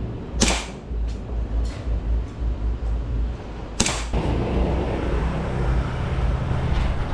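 Shots fired on a shooting range: two sharp cracks about three and a half seconds apart, with fainter shots between them, over a steady low rumble.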